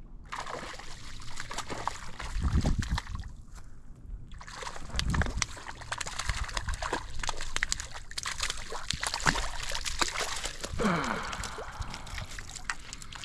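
Hooked rainbow trout splashing at the water's surface as it is brought in, with irregular splashes and sloshing water.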